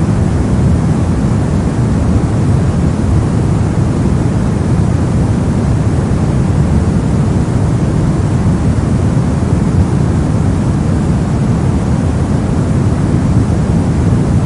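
Steady soft noise of a sleep and relaxation noise track: an even, deep hiss weighted toward the bass, without any change or events.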